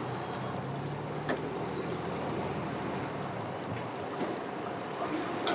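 A boat engine runs low and steady under wind noise, with a faint high whistle about half a second to two seconds in.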